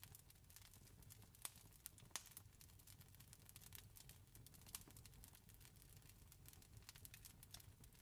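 Faint wood fire crackling: dense, irregular small pops and snaps, with a couple of sharper cracks about one and a half and two seconds in, over a low steady rumble.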